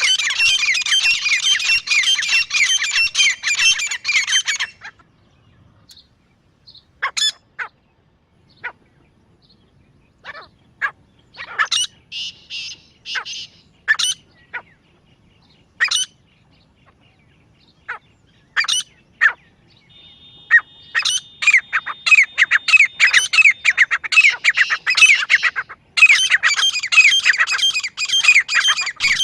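Grey francolin calling: fast runs of loud, shrill, repeated notes that break off about five seconds in, give way to scattered single calls, and start up again in a dense run about twenty seconds in.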